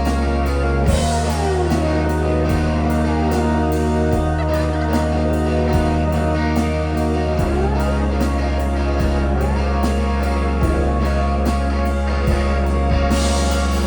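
A live band playing droning, psychedelic-rock style music: sustained low notes held under gliding pitches that slide up and down, over a steady quick pulse.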